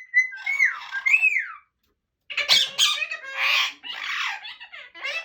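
Indian ringneck parakeet calling: a few gliding whistled notes, then, after a brief break, a run of harsh squawks.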